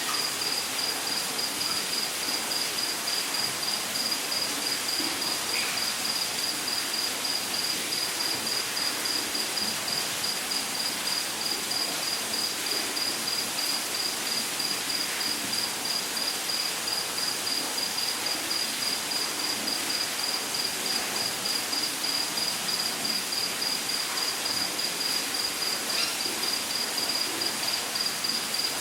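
Rainforest insect chirping in a high, rapid, evenly pulsed trill that never pauses, over the steady rush of a waterfall.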